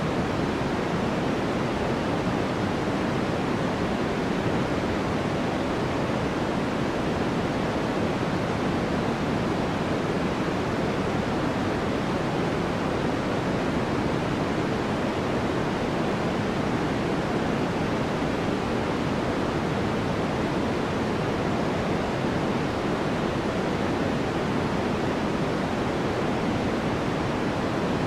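Steady white-noise track: an even, unbroken hiss weighted toward the low end that never changes.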